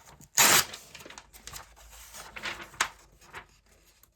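A magazine page being torn: one quick, loud rip about half a second in, followed by softer paper rustles and small clicks as the page is handled.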